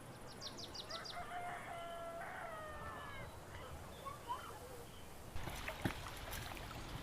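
A rooster crowing once, a long call that drops at its end, just after a quick run of high chirps. Sharp knocks and clicks come in near the end.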